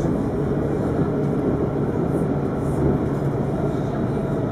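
Alstom Citadis 402 tram running along the track: steady rolling noise of wheels on rail with a low, even hum.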